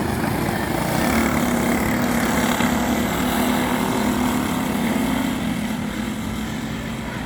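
Small racing go-kart engines running hard as a pack of junior karts goes by. The sound grows louder about a second in and fades over the last second or so.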